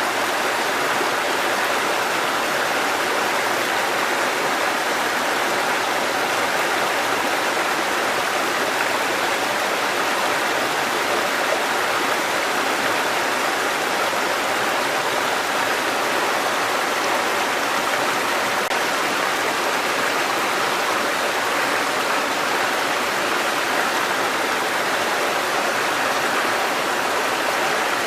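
Water cascading over rocks in a mountain stream, a steady, even rush with no change.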